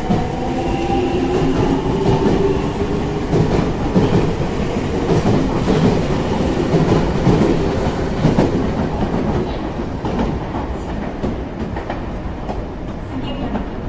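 Electric commuter train moving out along the platform. Its motors whine at the start, then the wheels clatter over the rail joints, and the sound fades as it leaves.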